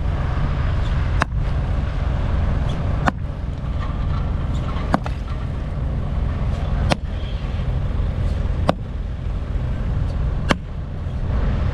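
Heavy diesel demolition machinery running steadily, with a sharp click about every two seconds.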